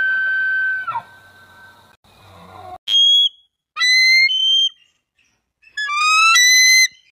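A held, clear whistle-like tone that stops about a second in, then, after a pause, three short whistled calls, each gliding or stepping upward in pitch, the last one longest.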